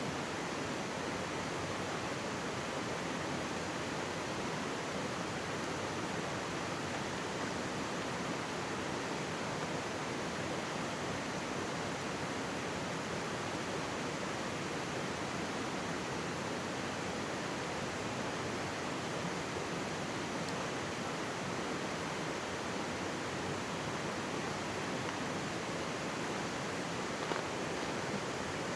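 Mountain stream babbling and rushing in a steady, even wash of water noise.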